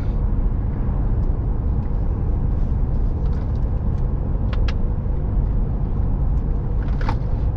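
Steady low road and engine rumble inside the cabin of a moving vehicle. A few short clicks are heard about halfway through and again near the end.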